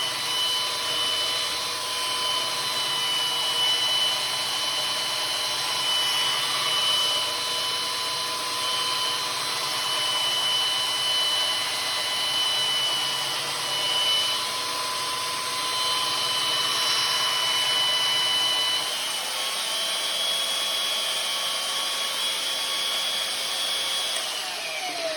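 Electric power tool running steadily while grinding the edge of a splitting maul to take out a nick. It is switched off near the end, its whine falling in pitch as it spins down.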